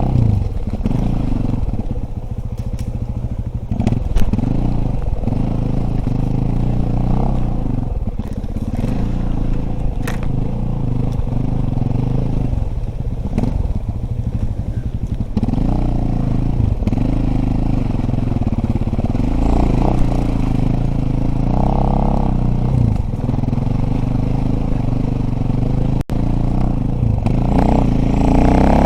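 Dirt bike engine running while being ridden off-road, its revs rising and falling over and over, with occasional knocks and clatter.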